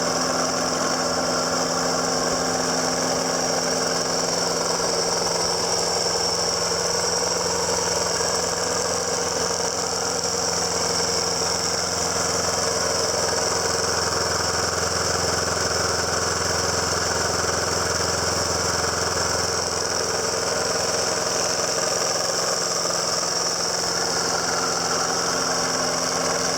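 Snapper Easy Speed walk-behind lawn mower's 7 hp overhead-valve engine running steadily, freshly pull-started after sitting for about a month.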